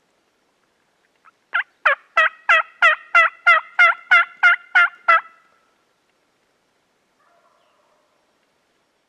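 A turkey yelping: a run of about eleven loud, evenly spaced yelps, roughly three a second, each note dropping in pitch.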